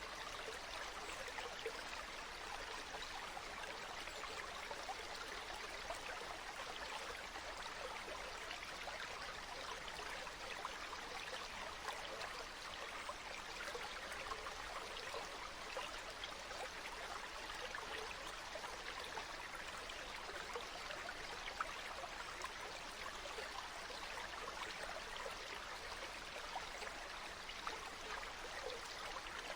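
Water flowing steadily in a stream, an even babbling with small splashes and no pauses.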